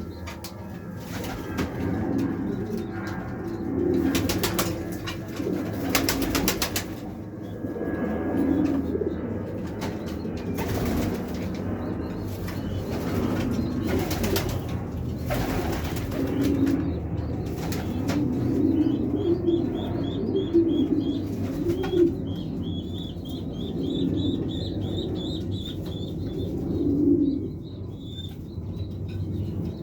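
Pouter pigeons cooing over and over, with several short bursts of wing flapping. From about two-thirds of the way through, a rapid high chirping joins in.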